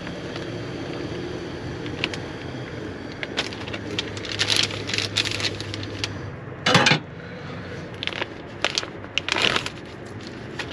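Crackling and crinkling of a heated MRE food pouch being torn open and handled, with several louder rustles as the pizza slice is worked out of it, over a steady low hum.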